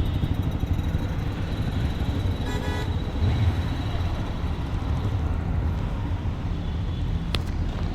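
Vehicle engine and road noise running steadily with a low rumble while riding on the road; a vehicle horn toots briefly about two and a half seconds in, and there is a single sharp click near the end.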